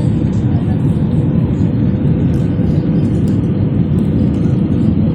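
Steady engine drone and rush of air inside a passenger airliner's cabin: a constant low rumble with a faint steady hum above it.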